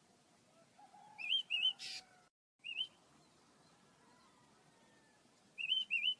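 Pet birds chirping: short rising-and-falling chirps, a quick pair about a second in, a single one near three seconds and another pair near the end, each pair followed by a short burst of noise.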